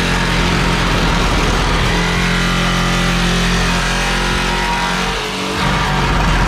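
Power tool running steadily as it cuts through the van's sheet-metal roof to make the opening for a roof fan. It eases off briefly a little past five seconds in, then picks up again.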